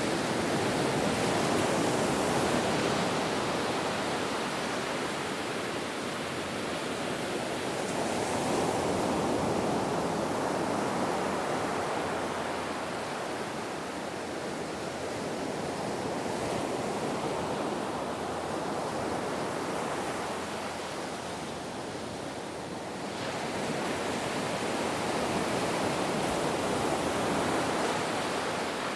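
Ocean surf: waves washing in as a continuous noise that swells and eases in slow surges, roughly one every eight seconds.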